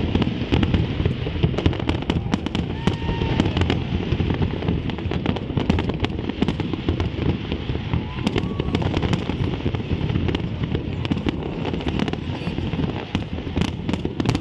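Fireworks display: a dense, continuous barrage of many rapid bangs and cracks with no pause.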